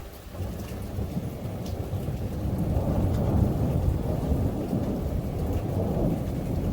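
Strong thunderstorm wind gusting against the microphone, a low rumble that swells over the first few seconds and then holds.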